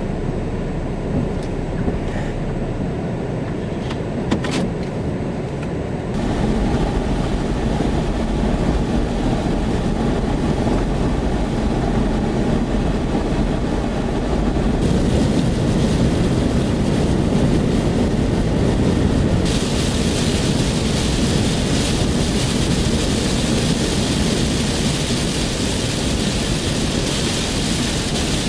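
Car cabin noise while driving: a steady low rumble of road and engine that grows louder about six seconds in. A hiss of rain on the car rises in two steps during the second half, as the car drives into a thunderstorm.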